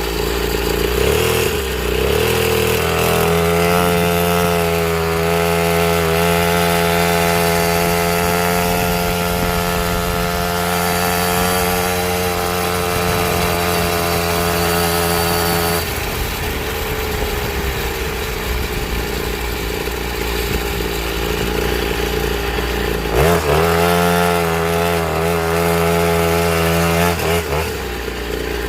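Small two-stroke engine of a cheap pit bike running under throttle: it revs up a couple of seconds in and holds high for about twelve seconds, drops back to a lower speed, then revs up again for a few seconds near the end.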